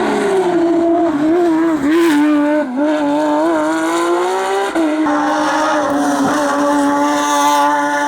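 Race car engine running hard on a hillclimb. Its pitch wavers and dips briefly several times in the first half, then holds a steady high note.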